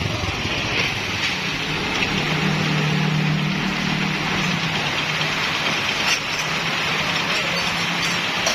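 Honda CD 70's single-cylinder four-stroke engine running steadily at idle with a new timing chain fitted: no chain rattle, the engine running quietly, described as completely silent.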